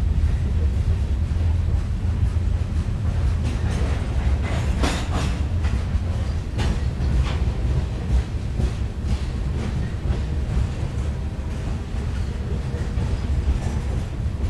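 Freight train of covered hopper cars rolling past at close range: a steady low rumble of wheels on rail. Scattered clicks and knocks come through, thickest around five seconds in.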